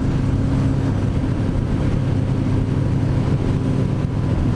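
Motorcycle engine running at a steady cruising speed, with a steady pitch and wind rush on the rider's microphone.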